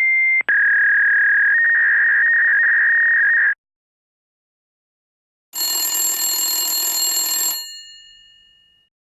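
A steady electronic tone for about three and a half seconds, broken by a click half a second in and stepping slightly in pitch partway through. After a pause comes a bright, metallic bell-like ring that stops abruptly after about two seconds, leaving a short fading ring.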